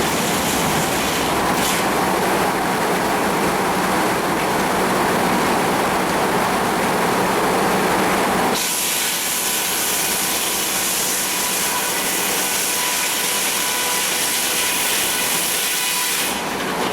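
Sawmill saw cutting through a cedar log with a loud, steady noise. About eight and a half seconds in, the sound changes suddenly to a thinner, higher noise with a steady whine.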